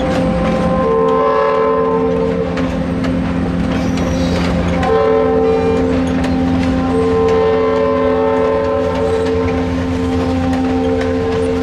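Passenger train rolling past, its wheels clicking over rail joints, while the locomotive sounds two long chord blasts. The first ends about four seconds in; the second starts a second later and holds until near the end.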